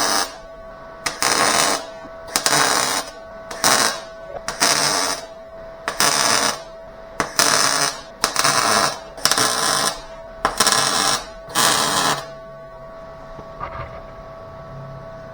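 Welder laying a quick series of short tack welds on sheet-metal body panel, about a dozen crackling bursts, each under a second, separated by brief pauses, stopping about twelve seconds in. A faint steady hum runs underneath.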